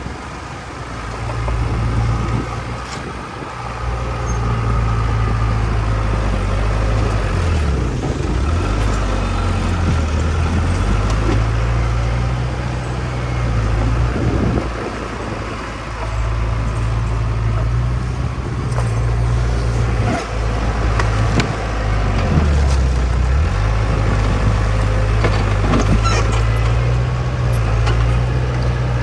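Bulldozer's diesel engine working under load, its engine speed rising and falling again and again, with occasional metallic clanks.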